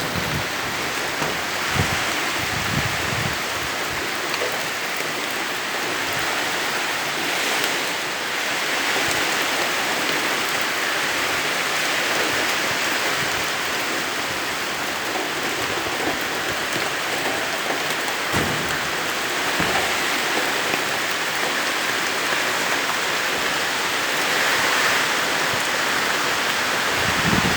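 Heavy rain falling steadily in a strong wind-and-rain storm, a dense even hiss, with a few brief low thuds of wind buffeting the microphone.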